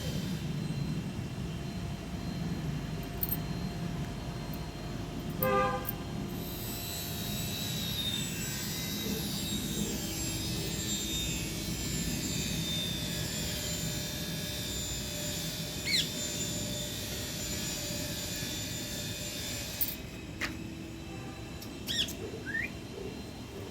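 Outdoor traffic background with a steady hum and a brief vehicle horn toot about five seconds in. A vehicle passes with a rising then fading hiss through the middle. A few short, sharp bird calls come near the end.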